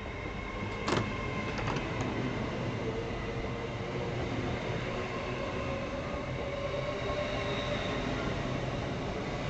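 LNER Azuma Class 801 electric train pulling out and running past, a steady rumble with a faint held whine. A sharp click comes about a second in, with a few fainter clicks just after.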